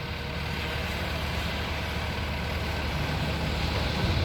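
Excavator's diesel engine running steadily while it digs, a low rumble that grows slightly louder.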